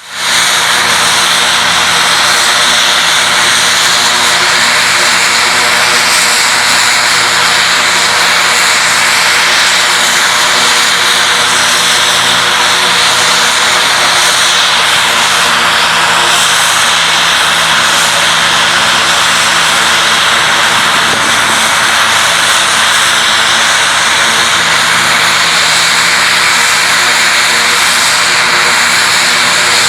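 Garrett T76 turboprop engine of an OV-10D Bronco running steadily at ground idle, a loud, even whine with propeller noise; the first engine is running while the second has not yet been started.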